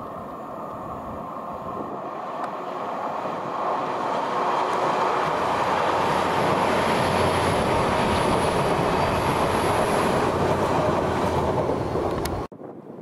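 Great Western Railway Class 802 bi-mode train passing close by at speed, on its underfloor diesel engines: the rush of wheels on rail swells to its loudest as the carriages go by, with a faint high whine over it, then cuts off suddenly near the end.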